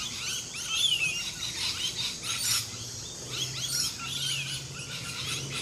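Several birds singing and calling together in a morning chorus: a busy mix of short chirps and whistles, with a clear falling whistle about a second in and again near the end. A faint low steady hum sets in about halfway through.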